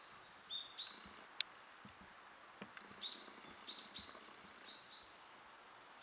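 A small songbird giving short high call notes, about seven in all, mostly in quick pairs, over a faint outdoor hiss. There is one sharp click about a second and a half in.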